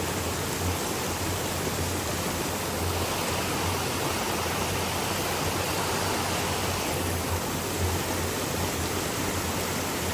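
Rushing mountain stream splashing over rocks and small falls: a steady, unbroken wash of water noise.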